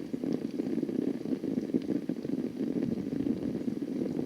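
Muffled bubbling and sloshing of floodwater, a steady dense crackle of small pops.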